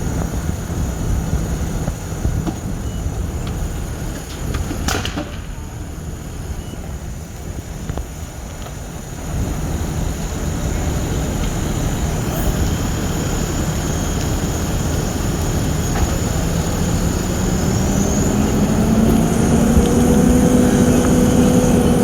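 Large vehicle engine running with a steady low rumble, its pitch rising slowly over the last several seconds.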